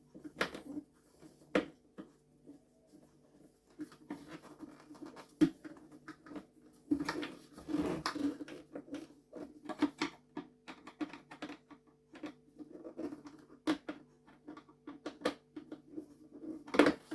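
Plastic parts of a vacuum cleaner's housing being handled and fitted back together: scattered clicks, taps and scraping, denser in the middle, over a faint steady hum.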